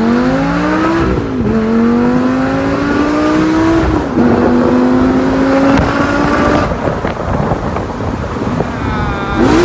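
Lamborghini Gallardo V10 engine accelerating hard, its note climbing and dropping sharply at two upshifts. The note then fades into road noise about two-thirds through, and a short sharp rev comes near the end.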